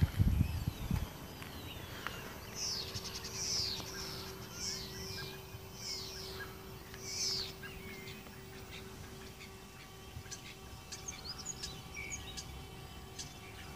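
Songbird singing: a run of about six high falling notes, then scattered short chirps. Low thumps on the microphone in the first second are the loudest sound.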